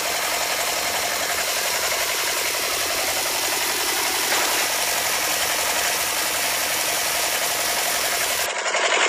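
Small motor-driven model machine running steadily, a fast, even mechanical rattle and hum from the miniature engine turning a fan through rubber-band belts. Near the end it cuts to a louder, faster rattle.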